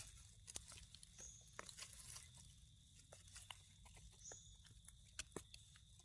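Near silence with faint, scattered crackles and clicks and a faint steady high-pitched tone; two brief high chirps come about a second in and again about four seconds in.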